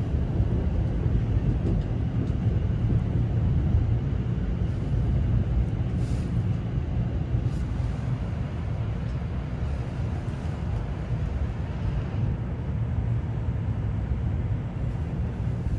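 Steady low rumble of a train running, heard from inside the carriage.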